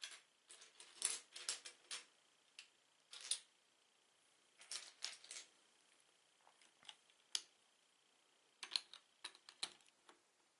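Plastic Lego pieces clicking and clattering in short clusters of sharp clicks, with pauses between the clusters.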